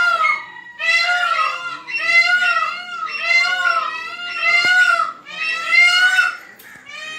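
A bird giving a loud series of wailing calls, about one a second, each call rising and falling in pitch.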